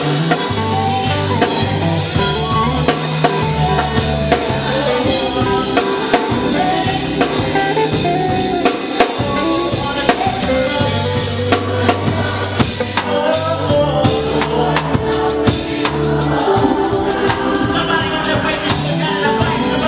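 Gospel worship band playing: a drum kit keeping a steady beat with snare and bass drum under sustained bass notes and keyboard chords.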